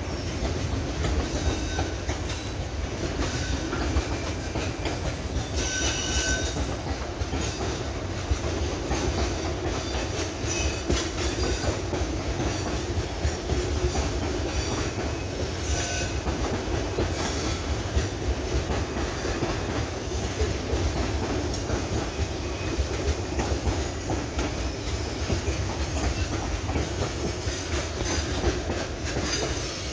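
Freight wagons loaded with sand roll past with a steady rumble. Brief high wheel squeals come about six seconds and sixteen seconds in.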